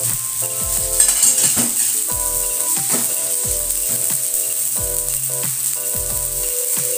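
Blended dried-chilli spice paste sizzling in hot oil in a wok, with a metal spatula stirring it about a second in. Background music plays underneath.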